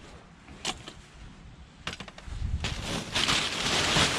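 A couple of light knocks as items are handled, then plastic trash bag rustling and crinkling that grows louder over the last second and a half as a bag is pulled open and rummaged through.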